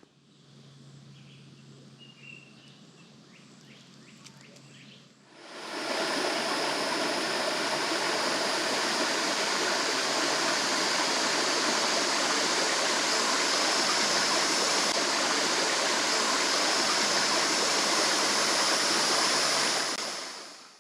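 Quiet woodland ambience with a faint bird chirp, then about five seconds in a loud, steady rush of flowing water begins, like a stream or small waterfall.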